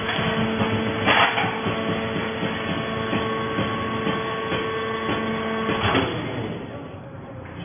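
Fiber baling machine running with a steady mechanical hum, a clatter about a second in and another near six seconds, after which the running sound dies down.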